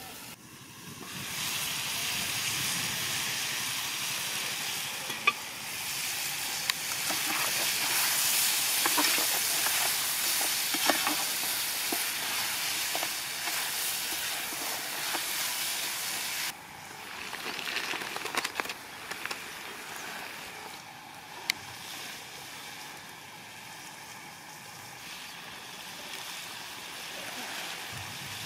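Chicken pieces sizzling in a large aluminium pot over a wood fire, a steady hiss with a metal spoon clinking and scraping against the pot as the chicken is stirred. A little past halfway the sizzling drops off abruptly to a quieter hiss with occasional clinks.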